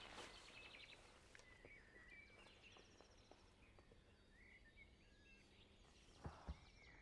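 Near silence with faint outdoor ambience: scattered chirps, short rapid trills and brief whistles over a low hiss, with two soft knocks about six seconds in.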